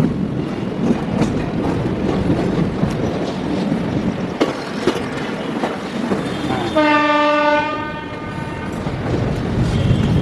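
Passenger train running, its wheels clattering over rail joints with a steady rumble. About seven seconds in, a locomotive horn sounds once for just over a second.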